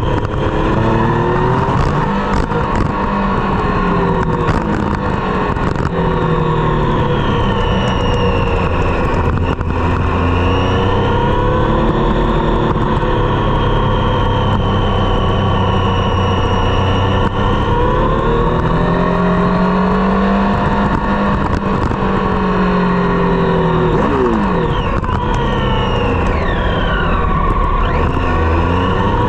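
Triumph Street Triple's three-cylinder engine running through a Dominator GP exhaust, its note rising and falling slowly with the throttle as the bike is ridden, with a quick sweep down in pitch near the end.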